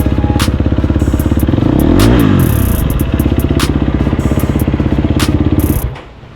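Heavily cammed LS V8 truck engine idling with a fast, choppy lope. About two seconds in, a quick throttle blip makes the pitch rise and fall. The sound stops abruptly near the end.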